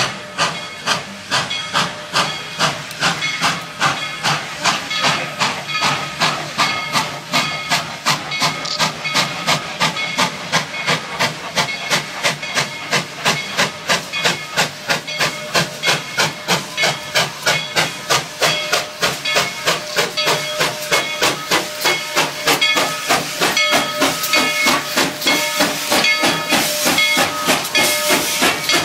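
Steam locomotive No. 190, a 2-8-2, chuffing as it pulls away with a train. Its exhaust beats come about two a second at first and quicken steadily as it gathers speed, running almost together near the end.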